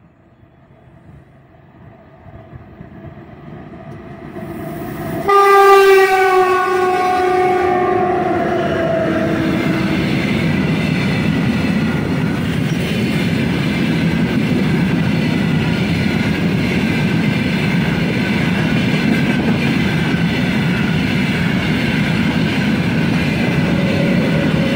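3ES5K "Ermak" electric locomotive approaching and growing louder, then sounding its horn loudly about five seconds in for a few seconds, the pitch sagging as it passes. Then the open-top freight wagons of a short train roll past steadily, wheels rumbling over the rails.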